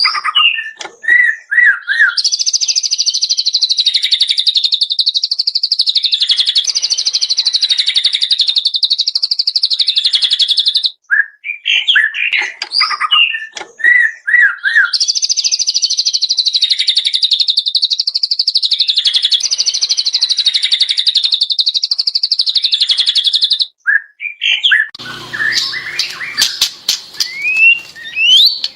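White-rumped shama (murai batu) singing: short whistled phrases, then a long, fast rattling trill held for about eight seconds, repeated a second time after more whistles. Near the end come scattered clicks and quick varied calls.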